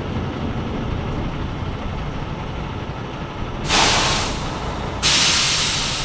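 Tractor-trailer's diesel engine idling as the air brakes let out two loud hisses of released air, the first a few seconds in and the second, sharper one about a second later: the parking brakes being set on arrival.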